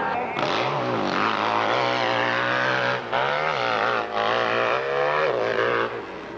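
Hillclimb motorcycle engine revving hard, its pitch rising and falling, with brief throttle drops about three times and easing off near the end.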